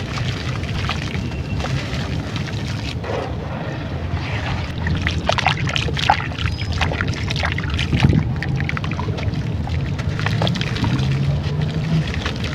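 Crunchy chunks of brown sand-clay crumbling and being dipped in water: a run of small crackles and crunches that grows busy about four seconds in, over a steady low rumble.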